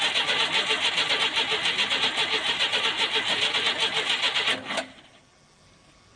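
Old carburetted inline-six petrol engine running with a fast, even pulse, which cuts off abruptly about three-quarters of the way through.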